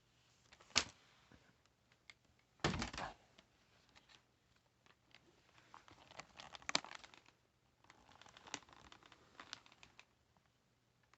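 Handling noise in short spells: a sharp click, then a brief scraping rustle, and later scattered small clicks and rustles.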